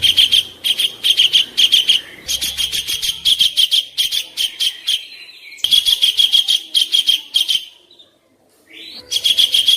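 A songbird giving a harsh, rapid chattering song in repeated phrases of about a second each, with a short break near the end. These are the rough 'kasaran' phrases of a master recording used to tutor contest songbirds.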